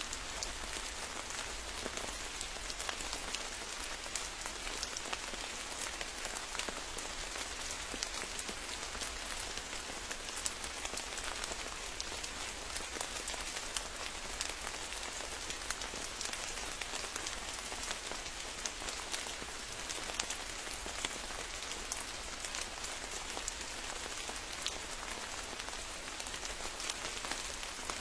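Steady rain falling, with many individual drops landing close by as sharp ticks.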